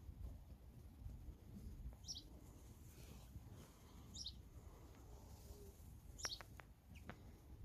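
A bird's short high chirps, repeating about every two seconds, over faint wind rumble on the microphone, with a few faint ticks near the end.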